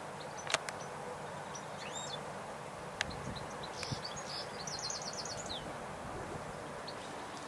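Small birds chirping, with a quick run of about eight repeated notes near the middle, over a steady background hiss. Two sharp clicks, about half a second in and again around three seconds in.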